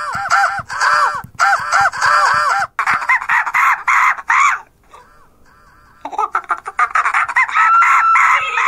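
Birds squawking and clucking in rapid runs of short, rising-and-falling calls, with a quieter gap about midway. A long drawn-out call begins near the end.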